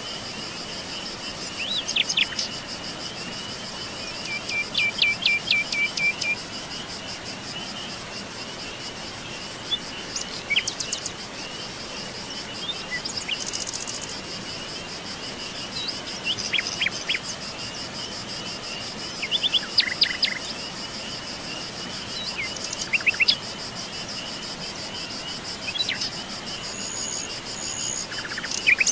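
Steady high-pitched trilling of insects such as crickets, with scattered bird chirps and calls over it, including a quick run of repeated notes a few seconds in.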